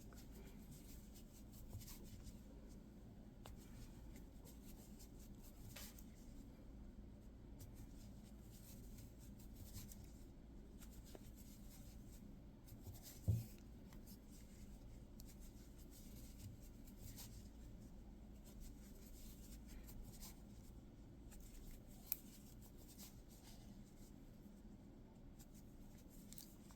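Faint rustling and light ticking of a crochet hook drawing yarn through stitches, with one low thump about thirteen seconds in.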